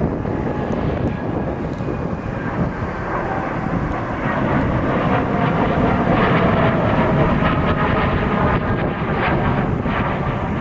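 Jet airliner's engines passing, a whine of several steady tones over a low rumble, growing louder about halfway through, with wind buffeting the microphone.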